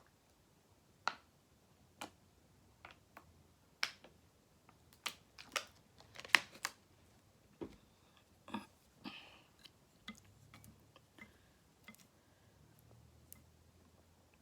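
Eating sounds from a bowl of ramen: about fifteen scattered sharp clicks and taps of utensils against the bowl and container, the loudest about six seconds in.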